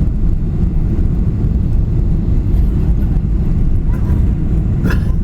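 Airliner cabin noise heard from inside the passenger cabin: a steady, loud low rumble of the engines and airflow during the landing, with a short click near the end.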